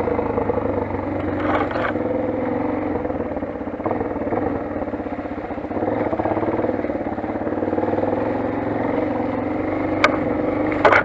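Motoland XR 250 single-cylinder dirt bike engine running at low, fairly steady revs while riding. A few sharp knocks or clatters come through, two of them near the end.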